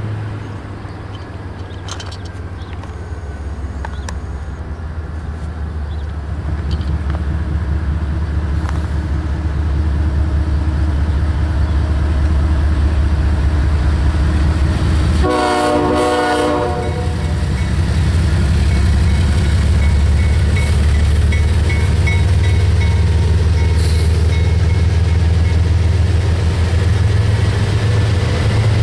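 Diesel locomotive engines running with a heavy, steady rumble as a train passes. About halfway through, the air horn sounds one short chord of about a second and a half.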